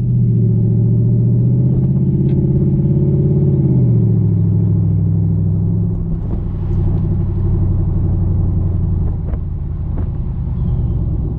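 Jeep SRT8's Hemi V8 rumbling through a Gibson cat-back exhaust as the Jeep is driven. The note holds steady, then drops in pitch about four seconds in as the revs fall.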